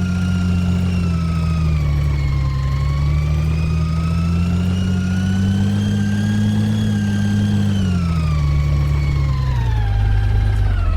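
Side-loader garbage truck's engine running raised, with a whine that rises and falls along with the engine speed as it drives the hydraulics, then drops back toward idle near the end.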